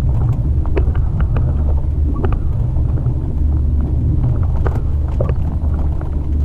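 Jeep Wrangler TJ driving on a forest track: a steady low rumble with scattered short knocks and rattles.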